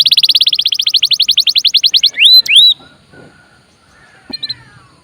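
Domestic canary singing a fast, even trill of rapidly repeated high notes, breaking off about two seconds in into two separate upswept whistles, then a pause with a couple of short notes near the end.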